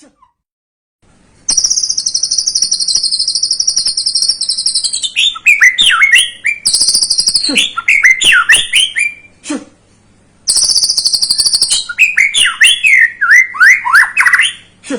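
Young white-rumped shama (murai batu) singing. High, buzzing trills of about three seconds and one second alternate with quick runs of sweeping whistled notes, twice over.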